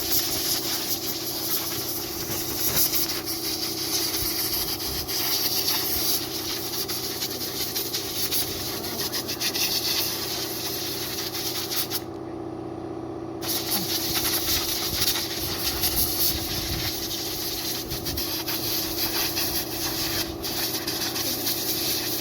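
Compressed-air nozzle blowing sand and dust off riders after a desert quad-bike ride: a steady loud hiss that stops for a moment about halfway through, then resumes, over a steady motor hum.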